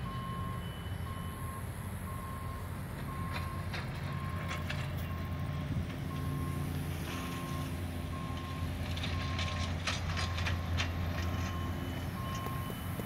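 A heavy vehicle's reversing alarm beeping at a steady, even pace, over the low running of its diesel engine.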